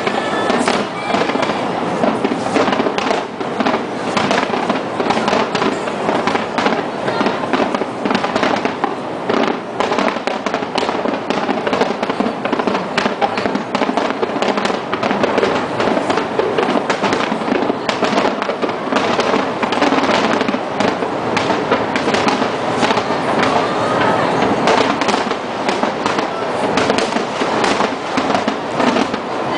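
Large aerial fireworks going off in a dense, continuous barrage of bangs and crackles, with no pause.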